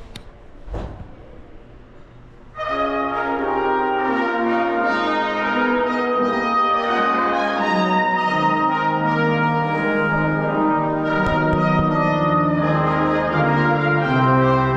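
Brass ensemble music with horns, trombones and trumpets playing sustained chords, starting suddenly about two and a half seconds in after faint wind and street noise.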